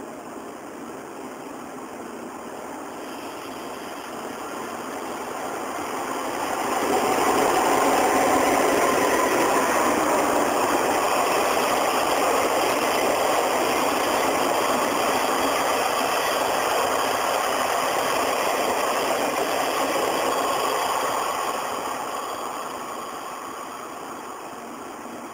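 Sleeper express train passing: a steady rushing rumble swells about six seconds in, holds for some fifteen seconds, then fades away near the end.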